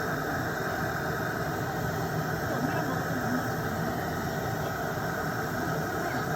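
Electric nail drill (e-file) running steadily, its bit sanding gel off a nail, with a constant hum and grinding hiss.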